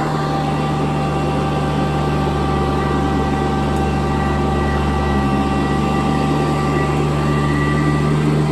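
Sanitaire vacuum cleaner running steadily, its motor giving an even whine over a low hum.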